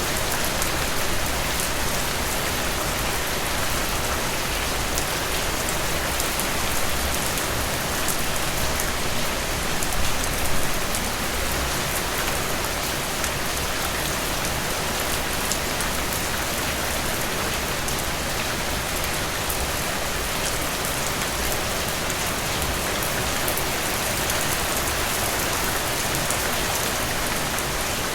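Steady rain falling, a continuous hiss with many fine drop patters, a little louder for a moment about ten seconds in.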